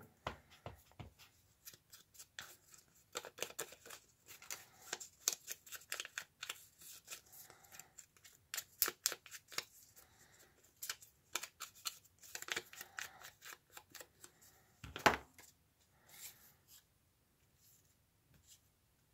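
Scissors cutting paper in runs of short snips, with paper being handled between cuts. There is one sharper knock about fifteen seconds in.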